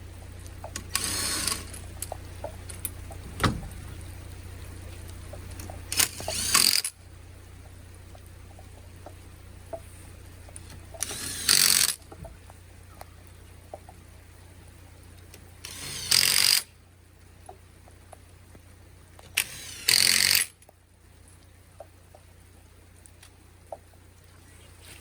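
Impact wrench running the wheel bolts of a Volvo 960 in five short bursts, a few seconds apart, one bolt at a time. A steady low hum lies under it, and there is a single sharp click between the first two bursts.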